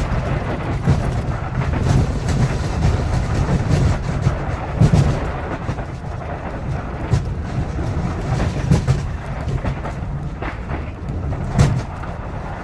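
Ford F-250 6.7L Power Stroke diesel pickup plowing snow with a V-plow: a steady low rumble from the truck, broken by sharp knocks and bangs every second or two as the truck and plow jolt over the rough road.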